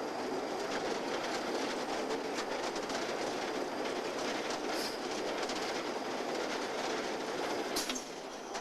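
Rail cars rolling along the track: a steady rumble of wheels with clicks over rail joints, and two sharper metallic clanks, one about halfway and one near the end.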